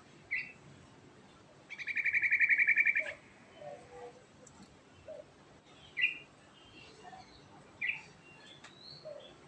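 Yellow-vented bulbul (trucukan) singing: short separate chirps, and about two seconds in a loud, fast rattling trill of even notes lasting over a second.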